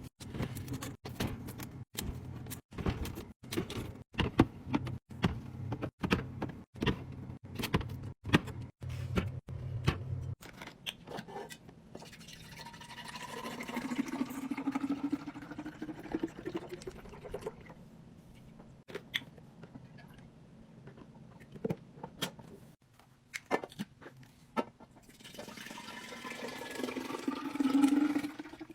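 Hard containers and bottles clicking and knocking as they are set in place in rapid succession, over a low hum. Then liquid is poured into a container twice, its pitch rising as the container fills.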